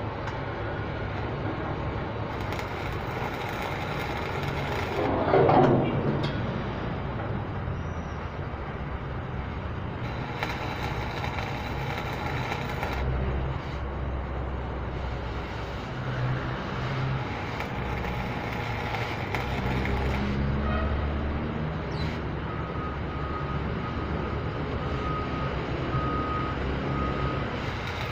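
A vehicle engine running, with a sharp falling-pitch sound about five seconds in and a reversing alarm beeping steadily over the last several seconds.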